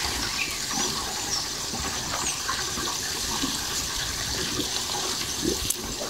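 Birds chirping in short high calls every second or two over a steady rushing background noise.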